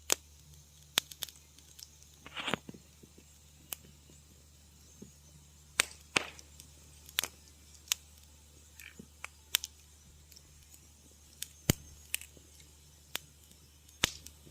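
Wood fire crackling: sharp pops and snaps at irregular intervals, with a brief hiss of escaping gas about two seconds in, over a steady low rumble.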